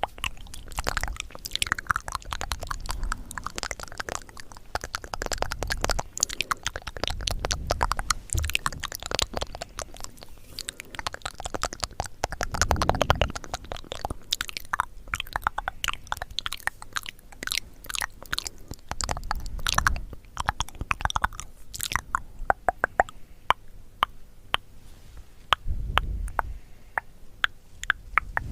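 Close-miked crunchy chewing and biting: a dense run of crackles and crunches with a few deeper, heavier bites.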